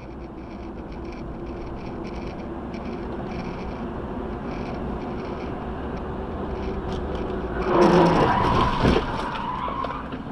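Vehicle driving noise recorded by a dashcam, slowly growing louder, then a sudden loud noise nearly eight seconds in, with a high steady tone ringing on for a couple of seconds.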